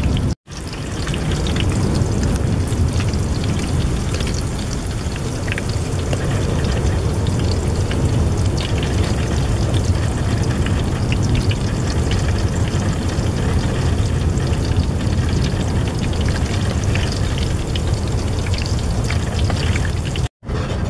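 Slices of banana trunk sizzling and crackling in hot oil in a frying pan. The sound cuts out briefly just after the start and again near the end.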